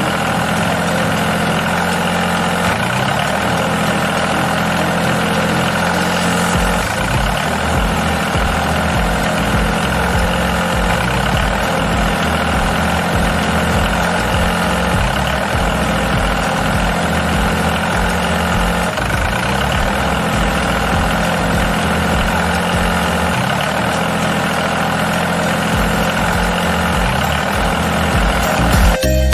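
Mini tractor engine running steadily at idle, its pitch shifting slightly now and then.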